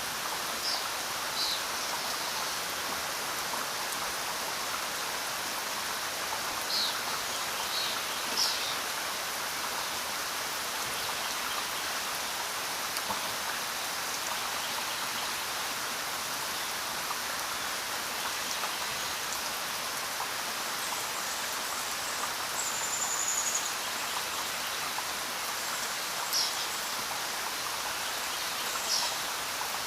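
Steady rain falling, with a few sharper drop splashes here and there.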